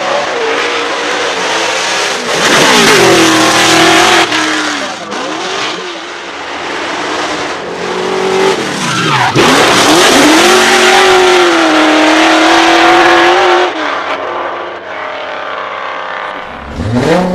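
Drift car engine revving hard with tyres squealing, the note dropping and climbing again several times and held high for a few seconds at a stretch, twice, before rising sharply again near the end.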